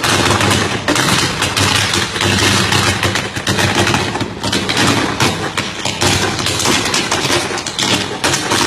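Firecrackers going off in a dense, continuous rapid crackle, with a steady low hum underneath.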